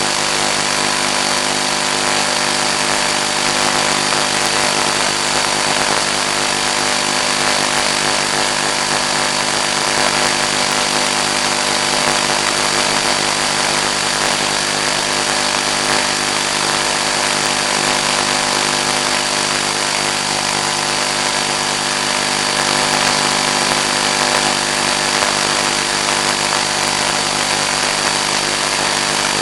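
Steady loud hiss with several constant humming tones over it, unchanging throughout, from the audio of the plane's 1.3 GHz analog FPV video downlink.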